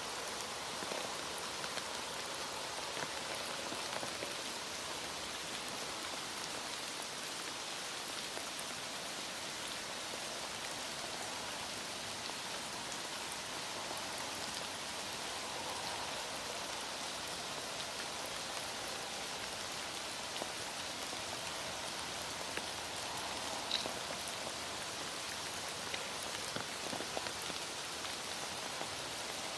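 Heavy rain falling steadily, a dense even hiss of drops on a surface, with one sharper drop tick late on.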